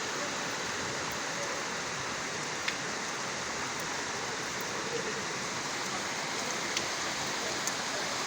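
Heavy rain falling steadily, with rainwater running like a torrent along the street, and a couple of sharp drop ticks.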